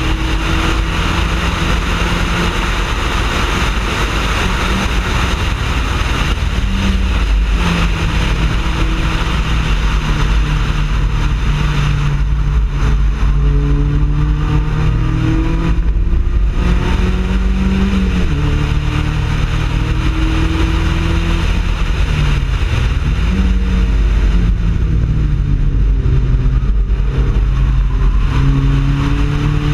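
Mazda Miata race car's four-cylinder engine running hard on track, its note climbing and then dropping several times as it works through the gears and slows for corners, over heavy wind and road noise.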